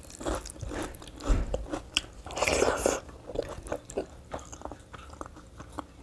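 A person chewing and biting food, with many short mouth clicks and crunches.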